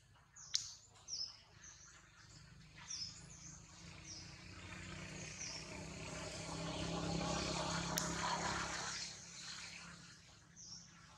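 Small birds chirping in short, falling calls, over a rushing rumble that swells for several seconds and then fades, loudest a little past the middle. A sharp click comes just after the start and another about eight seconds in.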